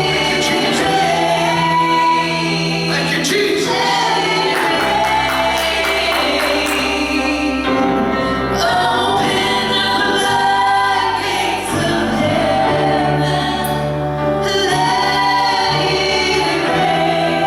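Gospel choir singing held notes over instrumental accompaniment with a steady bass line.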